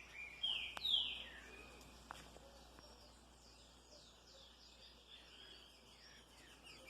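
Several small birds giving short, sharp, downward-sliding chirps, the agitated alarm calling of birds upset by an intruder. The chirps are loudest about a second in and carry on more faintly afterwards.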